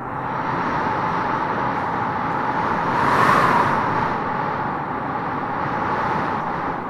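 Howling wind gusting through tropical trees: a steady rush with a howl centred in the middle range, swelling into a stronger gust about three seconds in before easing back.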